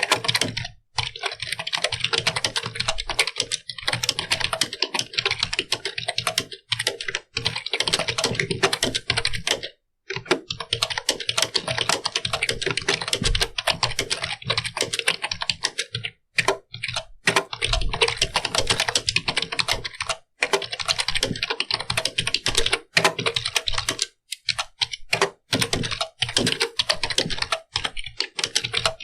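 Computer keyboard being typed on fast and continuously, a dense stream of keystroke clicks broken by a few brief pauses, around ten and sixteen seconds in and again near twenty-four seconds.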